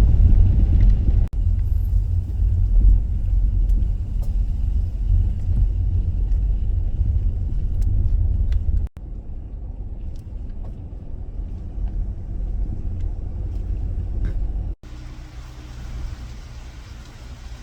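Low rumble of a Dodge Grand Caravan minivan driving, tyre and engine noise heard from inside the cabin. The sound cuts off abruptly twice and comes back quieter each time.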